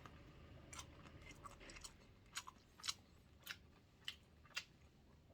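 Faint close-up chewing: short, sharp mouth clicks, about one every half second through the second half.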